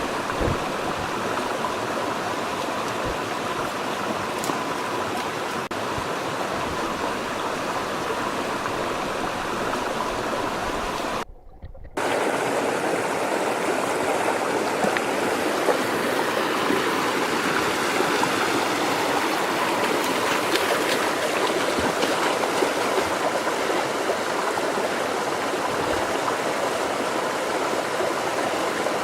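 Steady rushing of flowing river water. It drops out briefly about eleven seconds in, then resumes slightly louder.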